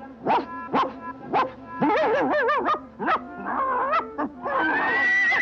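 Cartoon sound effects with score: a run of short, sharply sliding yelps about half a second apart, then warbling, wavering cries, going into a long high wavering tone near the end.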